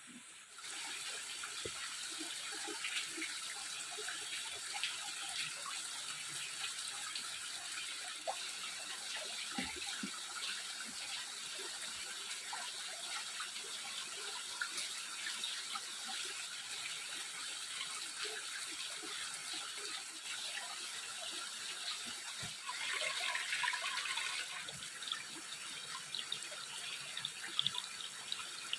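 Water running and splashing steadily, with small irregular splashes. It starts suddenly about a second in and swells briefly past the three-quarter mark.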